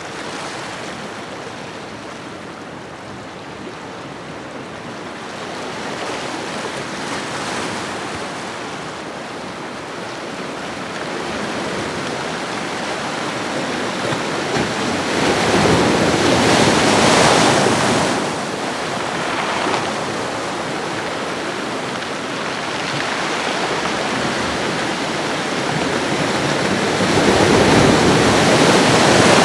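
Ocean waves washing in along a shoreline: a steady surf noise that swells twice, with a wave peaking about halfway through and another near the end.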